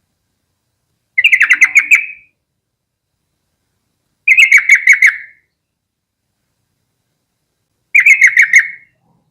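Yellow-vented bulbul singing: three short bubbly phrases, each a quick run of about eight chattering notes lasting about a second, a few seconds apart.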